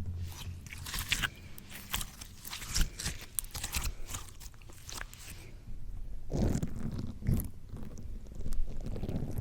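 Slime pressed onto and pulled off a microphone: sticky crackling and popping clicks, then low, wet squishing from about six seconds in.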